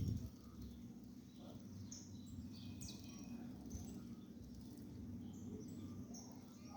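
Small birds chirping faintly: short scattered high chirps and tweets over a steady low hum, with a brief knock right at the start.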